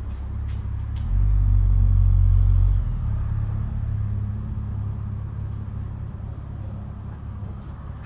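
Scooter engine running at idle, revved up briefly about a second in and settling back to a steady idle, with two light clicks just before the rev.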